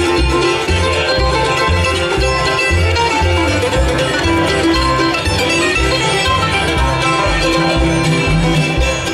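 Live bluegrass band playing an instrumental break at a steady, driving tempo, with banjo, guitar, fiddle and upright bass.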